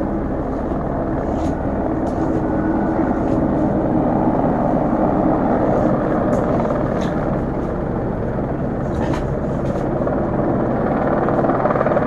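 Helicopter hovering overhead: a steady rotor and engine drone that holds level without rising or fading.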